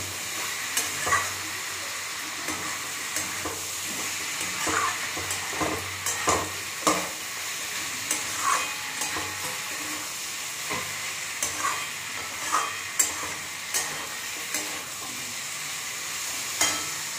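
Paneer, potato, capsicum and peas frying in oil in a metal kadai over a high gas flame: a steady sizzle, with irregular scrapes and knocks of a wooden spatula stirring and turning the pieces against the pan.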